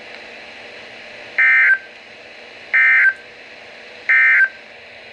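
Emergency Alert System end-of-message signal after a severe thunderstorm warning: three short, identical screeching digital data bursts about a second and a half apart, over a faint steady radio hiss.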